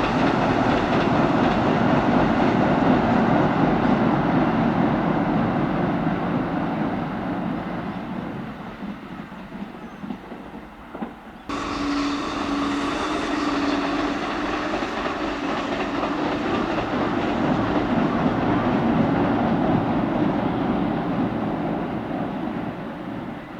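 Kintetsu electric train passing at speed, wheels clattering over the rail joints, fading as it runs away. About halfway through the sound cuts suddenly to another train passing, which also fades near the end.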